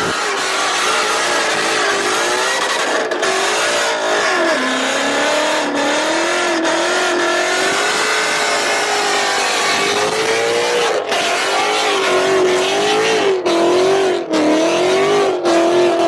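Car engine revving hard and held at high revs, its pitch wavering up and down continuously, with a few brief dips now and then.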